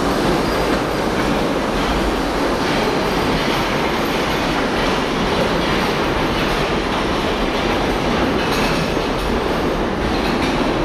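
Driverless 2 ft gauge Post Office Railway (Mail Rail) electric mail train pulling out of the platform and running away along the track towards the tunnel: a steady, loud running noise of wheels on rail.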